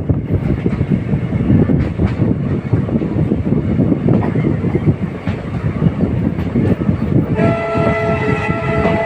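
A moving passenger train running along the track with a steady rumble and scattered clicks over the rail joints. About seven seconds in, a locomotive horn begins: one steady, multi-toned blast that is still sounding at the end.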